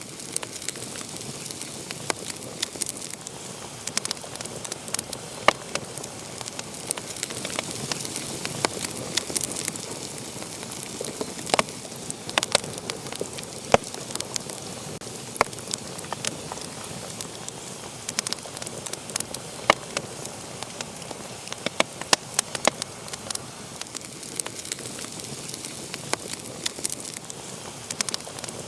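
Wood fire burning in a fireplace, crackling and popping in a steady irregular stream over a soft hiss.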